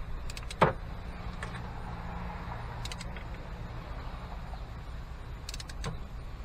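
Torque wrench set to 15 foot-pounds being worked on a spark plug: a few sharp, scattered metallic clicks, the loudest about half a second in, over a low steady hum.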